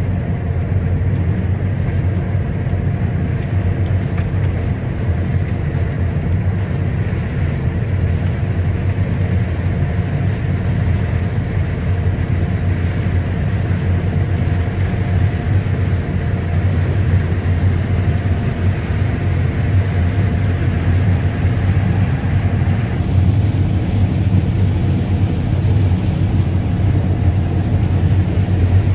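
Combine harvester running while harvesting corn, heard from inside the cab: a steady, loud engine and machinery drone. About three quarters of the way through, the higher hiss over it drops away.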